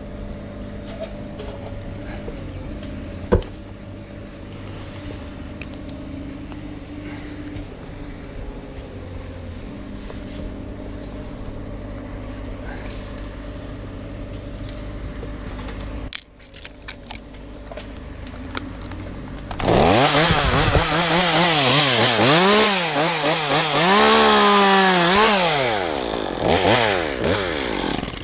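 A steady low motor hum for about sixteen seconds, then a brief lull with a few clicks; about twenty seconds in a chainsaw runs loud for around eight seconds, its engine pitch rising and falling as it is revved and loaded in a cut through pine.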